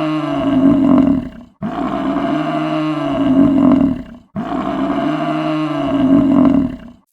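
Big cat roaring: the same long roar, about two and a half seconds each, repeated with short breaks about a second and a half and four seconds in.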